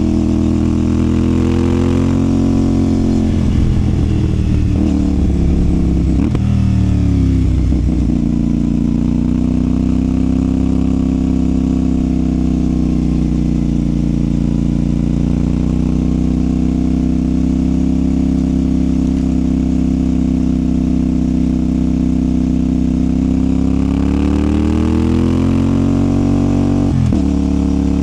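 CFMOTO 450SR motorcycle's 450 cc parallel-twin engine and exhaust under way. The engine note drops and wavers in the first few seconds, holds a fairly steady cruise for most of the stretch, then climbs under acceleration before falling sharply near the end at a gear change.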